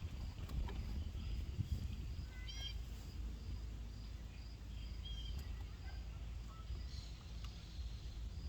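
Small birds chirping in short, scattered calls, with a quick run of calls about two and a half seconds in, over a low steady rumble of outdoor background noise.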